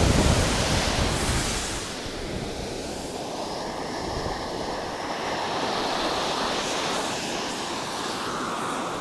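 Ocean surf washing in on the shore, loudest with a low rumble in the first couple of seconds and then a steadier wash, with wind buffeting the phone's microphone.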